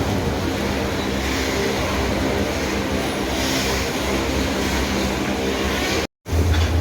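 Freight train of loaded iron-ore wagons rolling past in heavy rain: a steady noise of wheels on rails and rain with a faint low hum. It cuts off abruptly near the end, and a deeper, louder hum begins.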